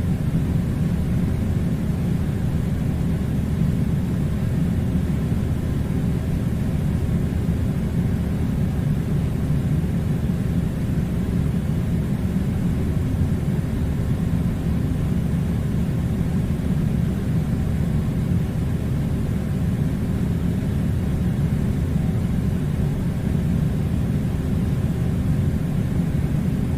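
Air conditioner running with a steady, unbroken low rumbling hum.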